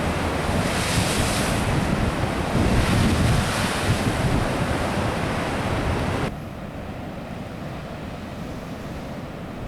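Sea surf breaking and washing, with wind buffeting the microphone. About six seconds in the sound drops suddenly to a quieter, duller rush of surf and wind.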